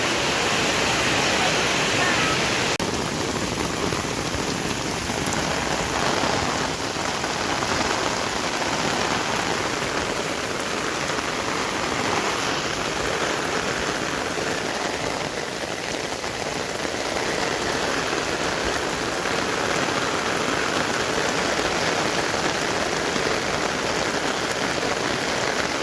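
Heavy rain falling steadily, an even hiss of rain with no let-up.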